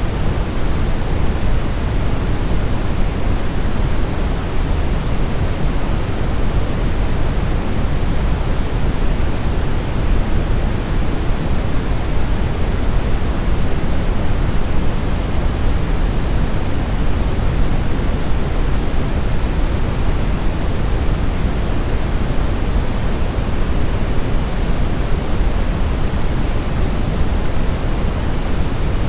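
Steady brown noise: an even, deep rushing hiss weighted toward the low end, with no events or changes.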